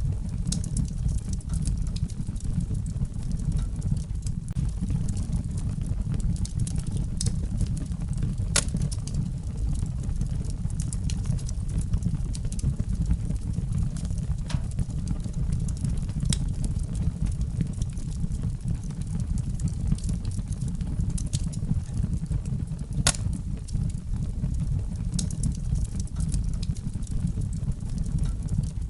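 Wood fire burning in a fireplace: a steady low roar of flames with scattered sharp crackles and pops, two of them louder, about eight seconds in and near twenty-three seconds in.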